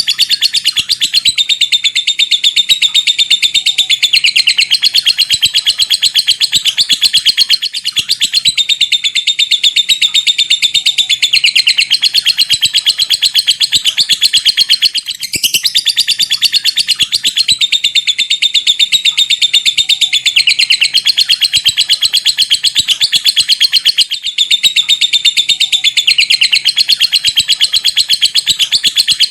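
Lovebird singing a long 'ngekek': a very fast, unbroken run of high chattering notes lasting several seconds at a stretch. Short pauses come about every eight seconds before the next long run.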